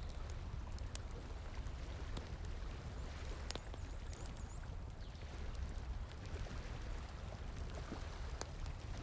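Wood fire crackling with scattered sharp pops over the steady rush of flowing water. A brief high chirp sounds about four seconds in.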